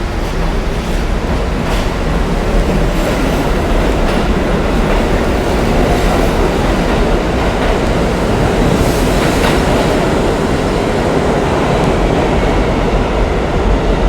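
NYC Subway R68 train running loudly along the track, a steady rumble of steel wheels on rail with a few sharp clacks scattered through it.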